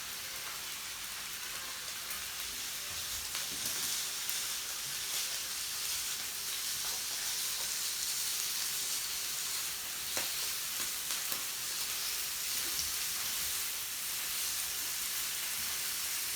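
Meat sizzling steadily on a yakiniku grill, with a few faint pops scattered through.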